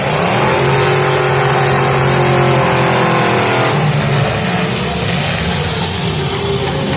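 Demolition derby car engines revving hard. One engine climbs in pitch just after the start, holds high for about three seconds, then drops back and rises briefly again.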